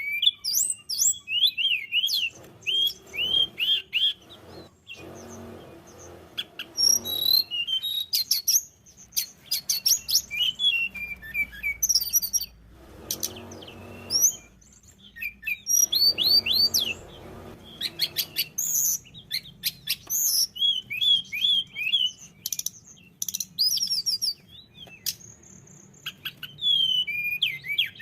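A tledekan gunung, a small flycatcher, singing a fast, varied song of high whistled notes and trills in phrases broken by short pauses.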